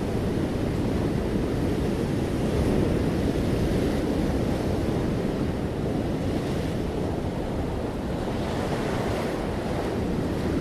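Sea waves on a beach: steady, deep surf with the hiss of the wash swelling and fading three times.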